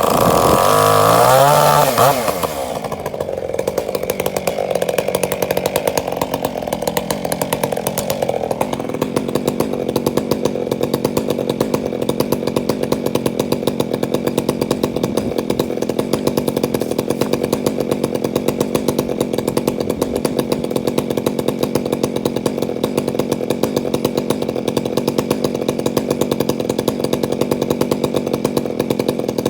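Two-stroke chainsaw revved high for about two seconds, then dropping back and running at a steady lower speed with an even pulsing beat.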